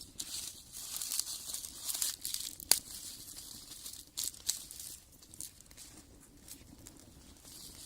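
Wood fire in a brick rocket stove crackling irregularly under a grill, with one sharp pop a little under three seconds in.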